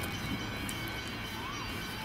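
Siemens electric suburban train approaching at a distance, a steady low rumble.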